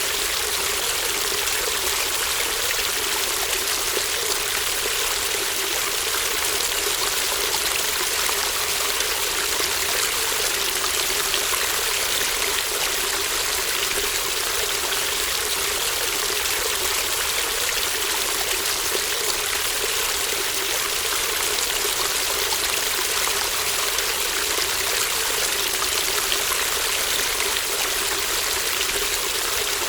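Shallow stream running steadily: an even, unbroken rush and trickle of water.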